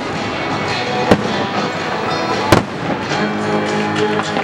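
Aerial firework shells bursting: two loud bangs about a second and a half apart, then a run of small crackles near the end, with music playing throughout.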